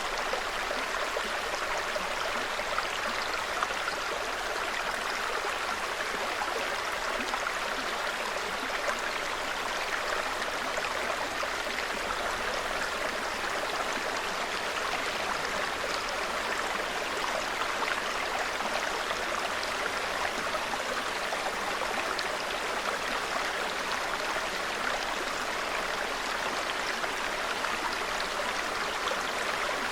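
Small mountain brook running, a steady, even babble of water with no breaks.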